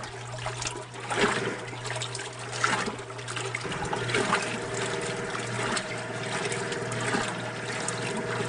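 Old Kenmore electric wringer washing machine running: a steady motor hum under water sloshing and trickling.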